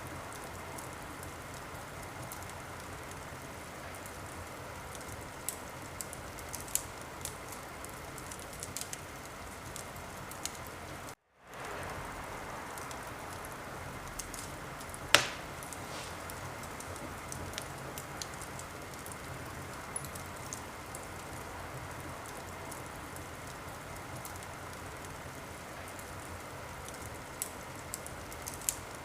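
Wood fire crackling: a steady hiss with scattered small pops and one loud pop about halfway through. The sound cuts out to silence for a moment about eleven seconds in.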